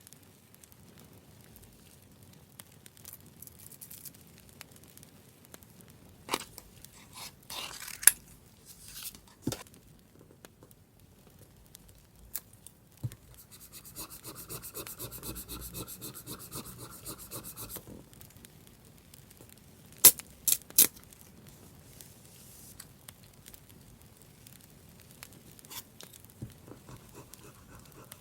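Close-up paper-crafting sounds: paper being rubbed, scraped and handled. There are sharp snips or clicks in a cluster about a quarter of the way in and again about two-thirds in, and a fast, even rasping stroke for about four seconds in the middle.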